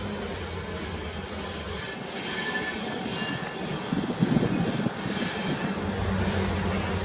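Train wheels squealing in several high-pitched bursts as railway cars move on the track, with a louder low rattle about four seconds in.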